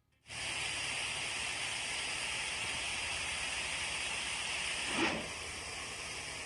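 Steady rushing of a waterfall, an even hiss of falling water, with a brief louder whoosh about five seconds in, after which it runs on slightly quieter.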